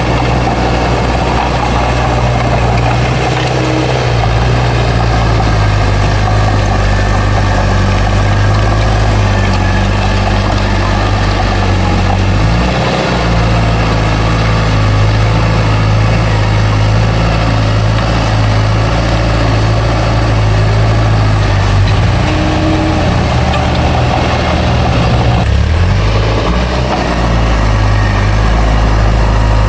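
Heavy diesel engine of earthmoving machinery running steadily under load, with a brief change in engine pitch about halfway through and again near the end.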